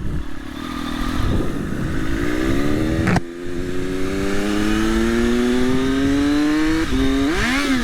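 Triumph Daytona Moto2's inline-three engine, running with a link pipe in place of the muffler, pulling hard under acceleration: the revs climb, break at a gear change about three seconds in, then climb again more slowly. Near the end the revs drop at another shift, then flare up and fall back as the gearbox pops out into neutral.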